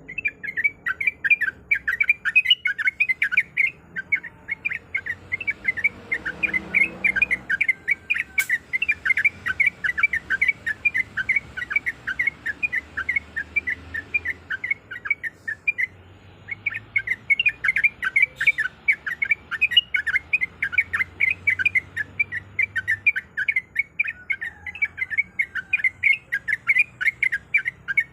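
Yellow-vented bulbul singing a fast, continuous chattering run of short notes, about five a second, with a brief pause about halfway through.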